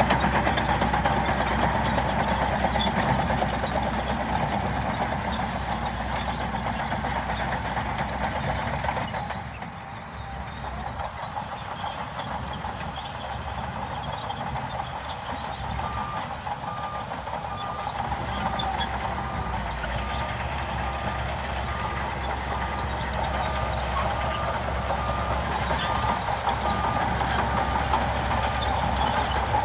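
Heavy earthmoving machinery's diesel engine running steadily, dropping quieter about nine seconds in. From about halfway on, a reversing alarm beeps in a steady series.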